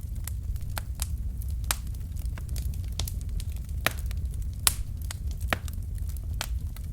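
Wood fire burning in a fireplace: irregular sharp crackles and snaps from the logs over a steady low rumble of the flames, with one louder pop near the middle.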